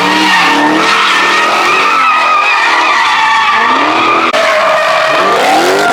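Car tyres squealing continuously under wheelspin, over an engine revving up and down, with a rising rev near the end.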